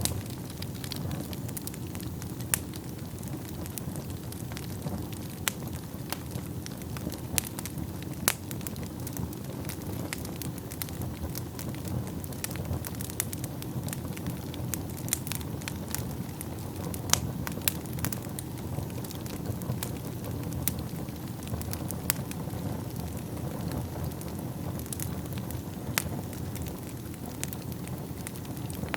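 Wood fire burning in a fireplace: a steady low rush of flames with irregular sharp crackles and pops, a few louder snaps every few seconds.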